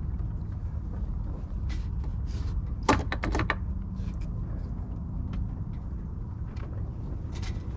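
Steady low rumble of wind buffeting the microphone on a sailboat, with a quick run of sharp clicks and knocks about three seconds in, as of deck gear being handled.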